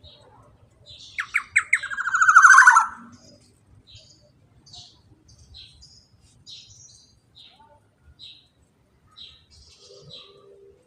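Black-naped oriole (kepodang emas) giving its long rolling 'ropel' call: a loud, fast rattle about a second in that swells for about two seconds and breaks off. Faint short high chirps follow.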